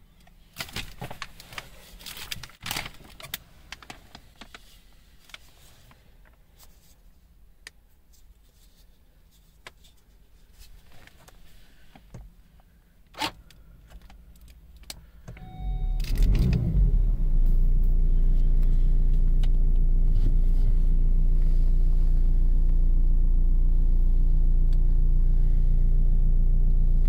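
Clicks and handling noises inside a car cabin, then about fifteen seconds in a brief tone and an Opel Corsa's engine starting by push button, flaring up and settling into a steady idle.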